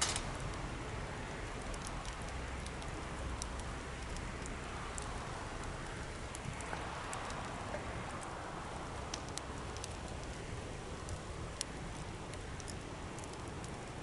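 Campfire burning with steady hiss and scattered sharp crackles and pops.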